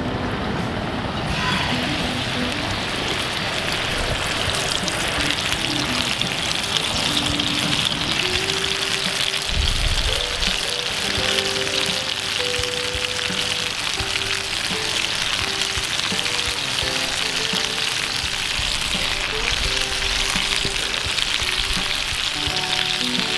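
Food frying in hot oil, a steady sizzle that starts about a second and a half in. Background music with a simple melody plays over it from partway through.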